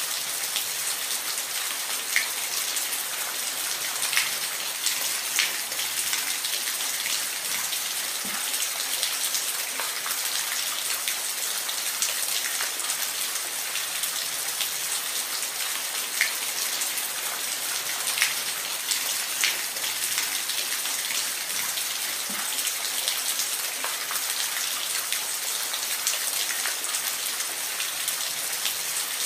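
Steady rain falling on a surface, an even hiss with scattered louder drop ticks every second or two.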